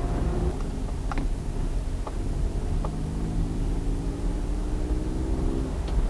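Car driving, with a steady low rumble of engine and road noise. An engine tone rises slightly through the middle and fades near the end, and a few sharp clicks sound over it.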